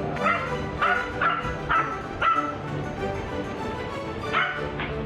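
A dog barking in short, sharp barks: about five in quick succession, then one more near the end, over background music.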